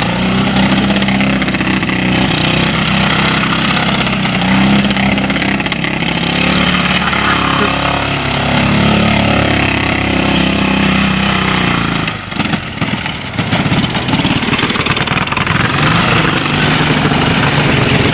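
Motorcycle engine running hard, its pitch rising and falling as it is revved, with a brief drop about twelve seconds in before it picks up again.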